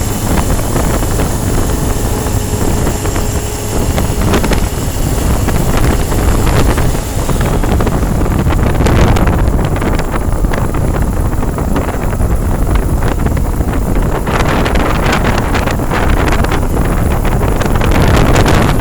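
Loud, steady road-traffic noise, with wind buffeting the microphone.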